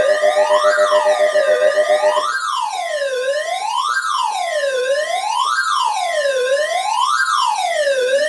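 Electronic wail siren rising and falling in pitch about every second and a half. A buzzing, rapidly pulsing alarm tone sounds over it until about two seconds in.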